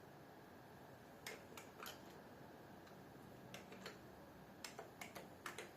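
Faint keystrokes on a computer keyboard: about a dozen sharp key clicks in small irregular groups, starting about a second in, as a reply is typed.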